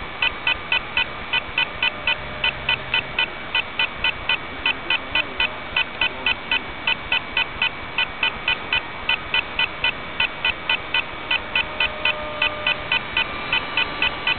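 Rapid, even electronic beeping, about three and a half short beeps a second, over a faint steady tone.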